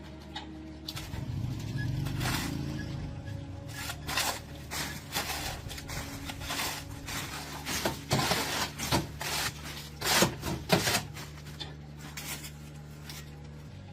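Hand work on a kettle under repair: an irregular run of sharp clicks, knocks and scrapes, loudest about 8 to 11 seconds in, over a steady low hum.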